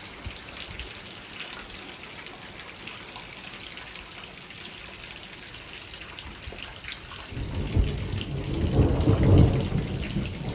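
Steady rain falling, then about seven seconds in a deep rolling thunder rumble builds, peaks and slowly fades: the thunder of a cloud-to-ground lightning strike.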